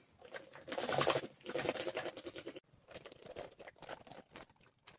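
A person chewing and crunching food close to the microphone: irregular crunches, loudest about a second in, then trailing off into lighter chewing.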